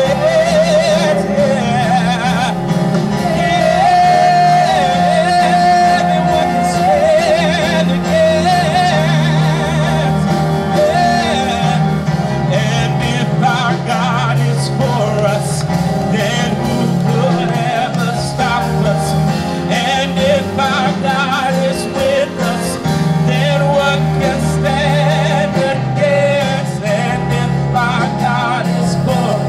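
Live gospel worship band playing with a male singer over it, sung notes wavering with vibrato and one long held note a few seconds in.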